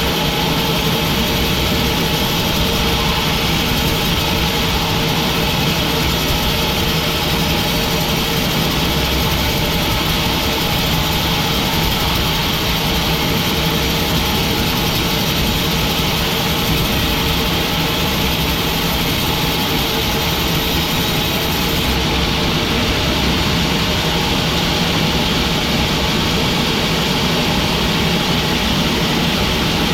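Sawmill machinery running steadily: a loud, unbroken machine noise with a constant hum.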